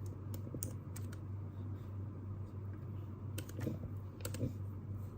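Light, irregular clicks and taps at a desk, about ten in all, over a steady low hum.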